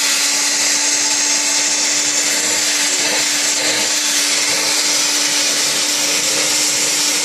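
Philips PowerPro Duo FC6162 cordless stick vacuum running steadily: a rush of air with one steady motor hum beneath it.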